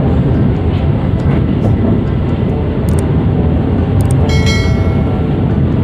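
Steady rumble of a moving passenger train heard from inside an INKA-built economy coach, with scattered clicks of the wheels on the track. About four seconds in, a high ringing tone with several pitches joins it for over a second.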